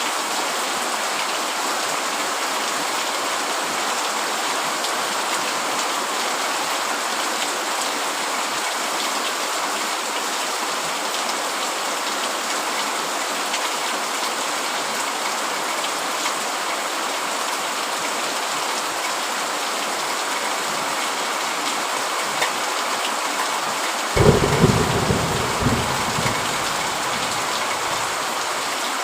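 Steady heavy rain drumming on a tent. About 24 s in, a low rumble of thunder starts suddenly and rolls for several seconds before cutting off abruptly.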